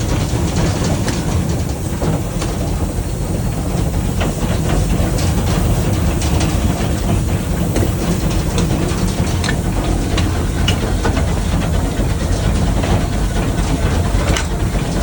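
Wood-fired steam locomotive under way, heard from inside the cab: a steady low rumble with scattered clanks and knocks of the running gear and rail joints.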